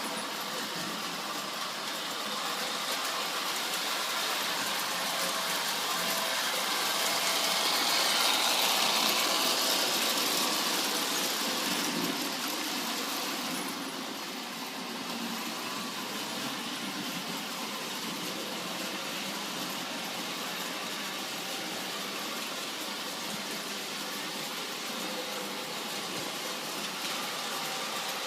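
Ives Standard Gauge toy freight train running on its track: a steady whirring rattle of motor and wheels, louder for a few seconds about a third of the way in.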